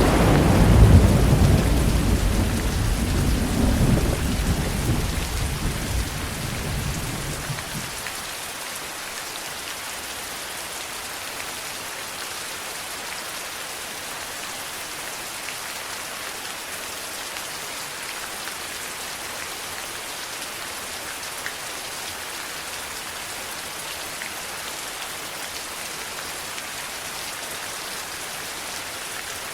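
Steady heavy rain falling, with a deep roll of thunder at the start that rumbles for several seconds and dies away about eight seconds in, leaving the even hiss of rain.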